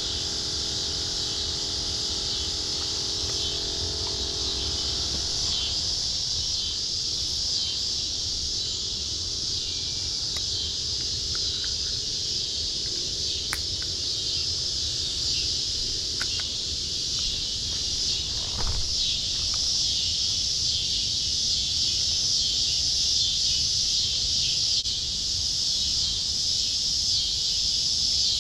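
A steady, high-pitched insect chorus, shrill and pulsing, with a faint low drone that dies away in the first few seconds.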